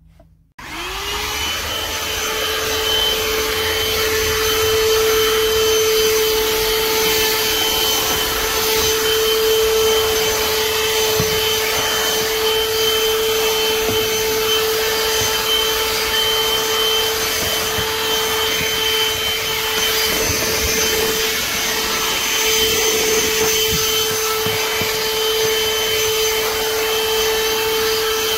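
BLACK+DECKER Dustbuster cordless handheld vacuum switched on: its motor spins up about half a second in, rising briefly in pitch, then runs steadily at full speed.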